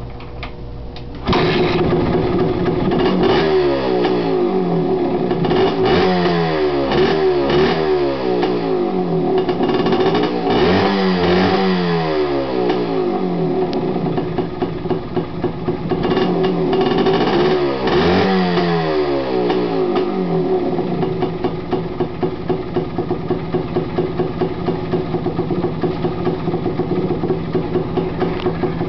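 1978 Yamaha DT250's single-cylinder two-stroke engine catching from cold about a second in, then revved up and down repeatedly before settling into an uneven, pulsing idle for the last third. Cold-blooded and not yet running smoothly until it warms up.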